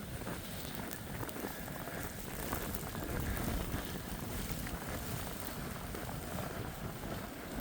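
Steady noise of a blizzard: wind and driving snow making a constant hiss over a low rumble, swelling slightly about halfway through.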